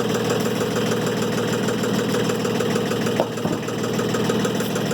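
Portable sawmill's engine idling steadily, with a brief click about three seconds in.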